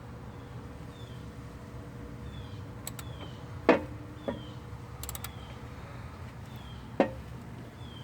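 Mercedes-Benz M113 V8 engine idling with a steady low hum. A few sharp clacks cut through it, the loudest about halfway in and another near the end. Faint short high chirps repeat in the background.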